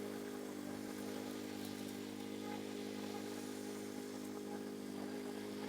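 Petrol lawn mower engine (Briggs & Stratton on a Masport mower) running steadily at constant speed.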